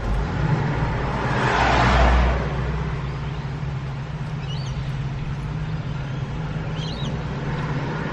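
Road traffic: a steady low engine hum, with a car passing by that swells and fades about two seconds in. A few faint bird chirps come later.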